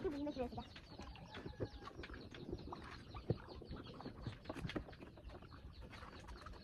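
Birds chirping faintly, with many short scattered calls, and a brief voice at the very start.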